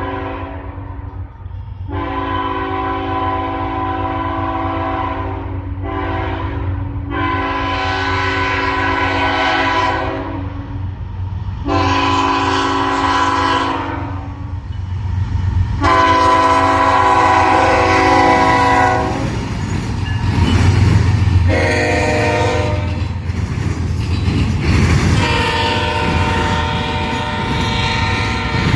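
Diesel locomotive's multi-note air horn sounding a series of blasts, mostly long ones of two to three seconds with a few short ones between, over the steady low rumble of the passing train.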